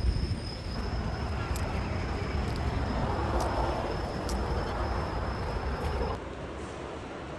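Outdoor background noise: a steady low rumble with a thin, steady high tone above it and a few faint ticks. About six seconds in it cuts to a quieter, plainer background.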